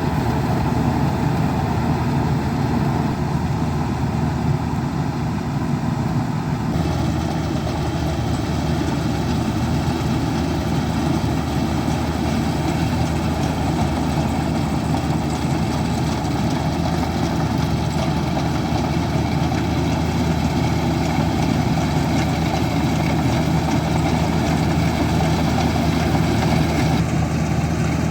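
Diesel engine of field farm machinery running steadily, with a continuous low hum. The sound shifts abruptly about seven seconds in and again near the end.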